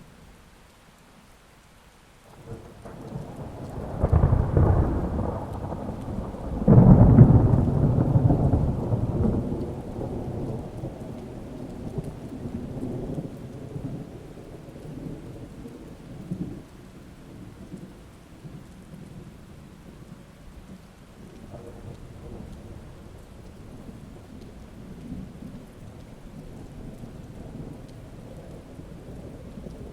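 Thunderstorm with steady rain. About two seconds in, a roll of thunder builds and breaks into two loud claps, around four and seven seconds. It then rumbles on and slowly fades over the rest.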